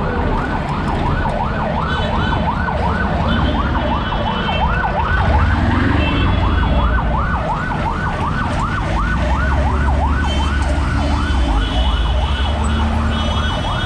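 An electronic siren sounding a rapid yelp, a rising sweep repeated about three times a second without a break, over a steady low rumble of wind on the microphone.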